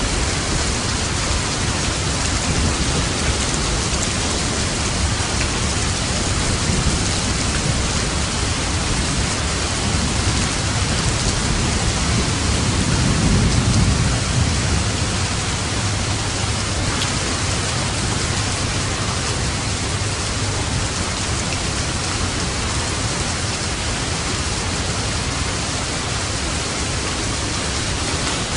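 Steady heavy rain with thunder; a low rumble of thunder swells about halfway through and fades a few seconds later.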